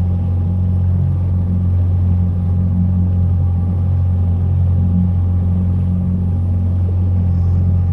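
Tohatsu 20 hp EFI four-stroke outboard motor running steadily at low speed, trimmed partly up for shallow water, giving a constant low hum.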